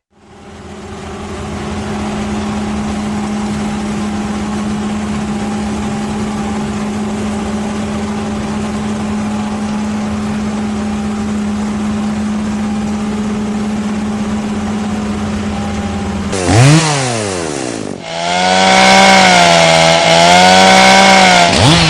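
Chainsaw engine running at a steady high pitch. Near the end it swoops briefly down and up in pitch, then runs louder with its pitch wavering up and down.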